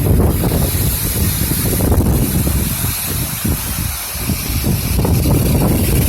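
Wind buffeting the microphone: a loud, irregular low rumble over a steady hiss.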